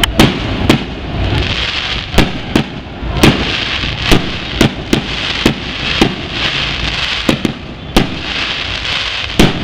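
Aerial fireworks going off in quick succession: sharp bangs at uneven intervals, roughly two a second, over a continuous hiss.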